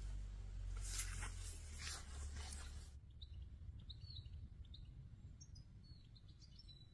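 Small birds chirping in short, high calls, scattered through the second half, after a few seconds of rustling and low rumble.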